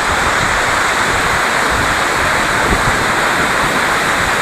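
Steady rushing roar of a waterfall, with irregular low buffeting of wind on the microphone.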